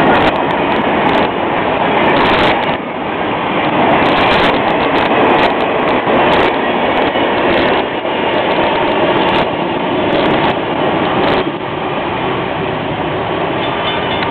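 Freight train cars rolling past: a steady, loud rumble of steel wheels on the rails, with scattered sharp clicks.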